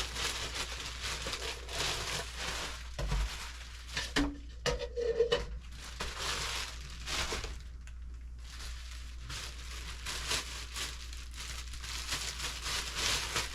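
Plastic wrapping on packs of paper napkins, plates and cups crinkling and rustling as the packs are handled, with a few knocks about four to five seconds in.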